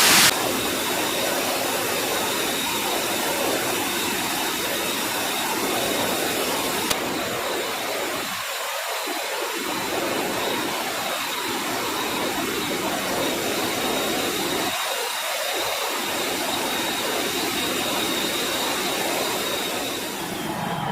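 Jet aircraft engines running, a steady rushing noise with a faint high whine.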